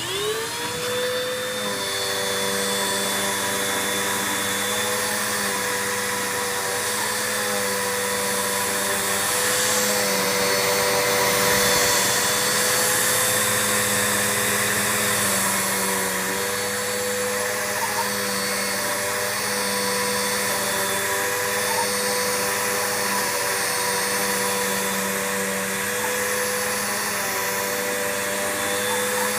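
Bissell vacuum cleaner switched on, its motor spinning up over about a second and then running steadily. Its brush roll is driven by a makeshift belt cut from a lawnmower inner tube, which is working.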